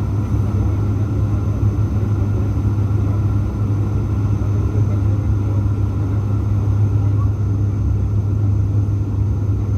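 Steady low drone of a passenger airliner in the cabin during landing, with the engines running evenly and no change in pitch or level.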